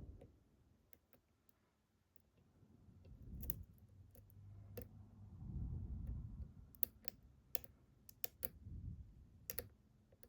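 Sharp, irregular metal clicks of lock-picking tools working a Ruko 600 lock, with low rumbling handling noise. The clicks come thickest in the second half.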